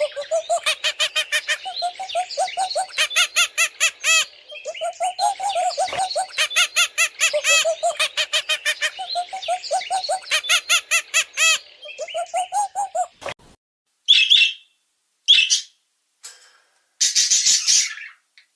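A bird calling in rapid runs of quickly repeated pitched notes, several runs in a row for about thirteen seconds, followed by a few separate short calls near the end.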